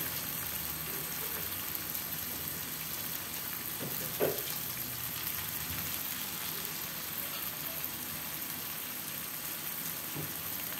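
Onions, galangal, ginger, tomato and ground chili paste sizzling steadily in hot oil in a wok, with a brief knock about four seconds in.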